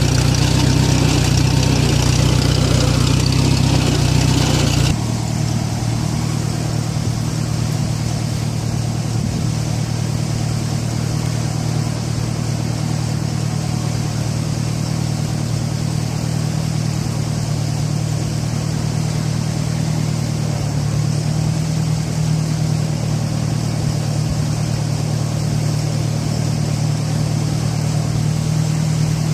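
A motor vehicle engine running steadily at a low, even pitch. About five seconds in the sound changes abruptly: the higher hiss drops away and the engine note carries on.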